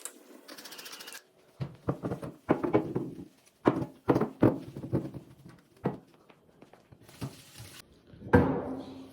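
Objects being handled and set down on a hard surface, a string of knocks and clatters like kitchenware on a counter, with the loudest knock near the end.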